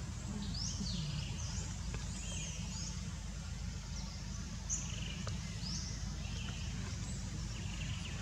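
Short high bird chirps repeating every second or so over a steady low background rumble.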